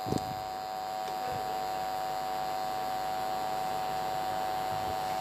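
Steady electrical buzz from a faulty microphone, a stack of fixed tones at constant level. There is a brief dull knock just after the start.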